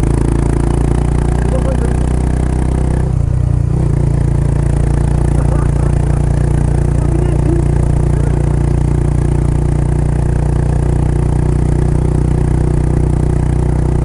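Kawasaki Estrela's single-cylinder four-stroke engine, breathing through a Yamato aftermarket muffler, running steadily under way. Its note briefly changes about three seconds in, then holds steady again.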